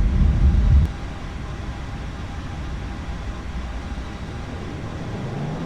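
Airbus A220 jet engines, heard as a steady rushing noise with faint steady whining tones. Wind rumbles on the microphone for the first second and cuts off abruptly, and near the end a whine begins rising in pitch.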